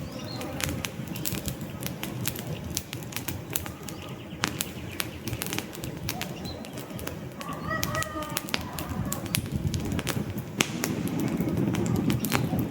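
Wood fire crackling with frequent sharp pops over a low rushing burn. A bird calls briefly about eight seconds in.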